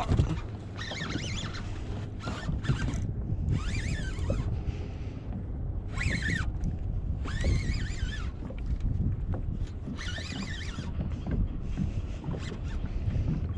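Wind buffeting an action camera's microphone on a kayak at sea: a steady low rumble. Short bursts of high, wavering squeaks break in about every one to three seconds.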